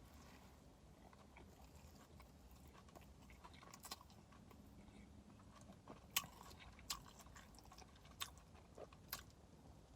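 Faint chewing of a person eating a chicken patty sandwich, with a few short sharp clicks of mouth smacks spread through it.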